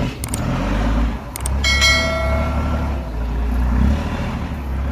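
Heavy truck diesel engine running with a steady low rumble, joined about two seconds in by a brief high-pitched squeal and preceded by a few sharp clicks.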